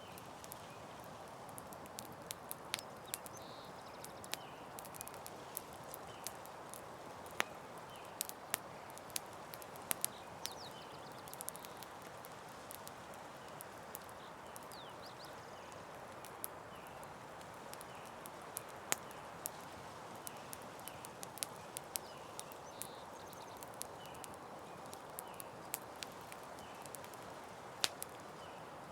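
Campfire crackling: sharp, irregular pops and snaps over a steady soft hiss, with faint short high chirps repeating in the background.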